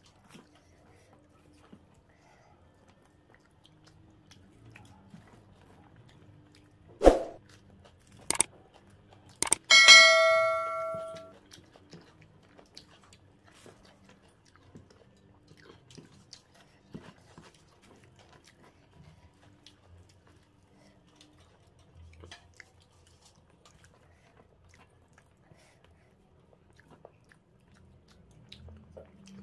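Quiet chewing and hand-eating of curry and rice, broken about seven seconds in by a thump and a click, then a metallic ding that rings for about a second and a half.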